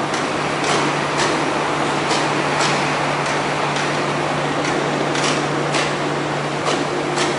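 Train running on rails: a steady hum and rumble with sharp clacks at irregular intervals, typical of wheels passing over rail joints.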